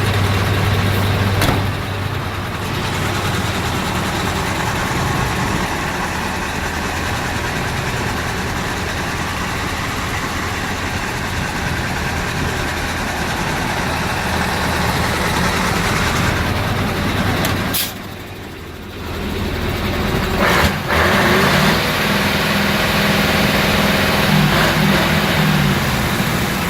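Mercedes-Benz 2628 6x4 tipper truck's diesel engine running at idle, a steady low hum. It goes briefly quieter with a couple of clicks about two-thirds of the way in, then runs on with its pitch shifting up and down near the end.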